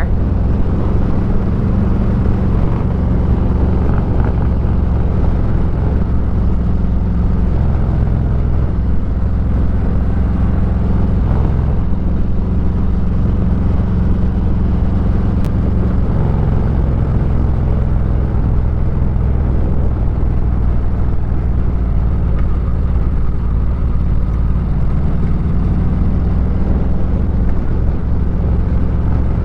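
Motorcycle engine running steadily on the move along with road noise, its low note shifting slightly a few times.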